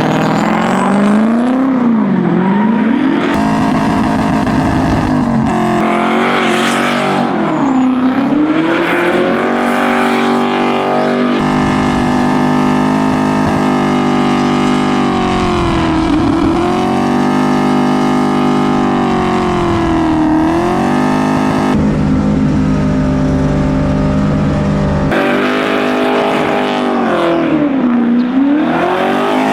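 Turbocharged BMW M62 V8 in a BMW E30, revving up and down again and again under hard driving. The engine note shifts abruptly several times.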